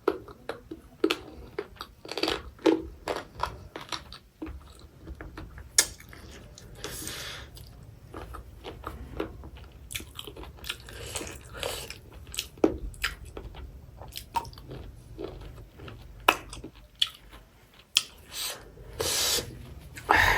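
A person chewing and biting food close to the microphone: irregular crunches and wet chewing, with a few sharper, louder bites scattered through.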